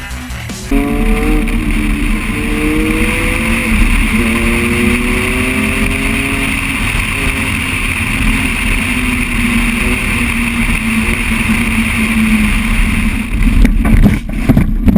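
Motor vehicle engine running under steady road and wind noise, its pitch rising and falling gently; it starts abruptly about a second in, and the sound turns rougher and choppier near the end.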